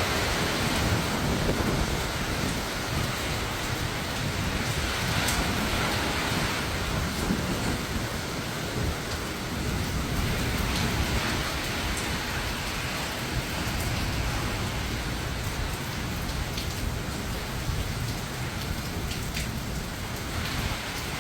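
Hurricane wind and heavy rain, with a low rumble of gusts that rises and falls.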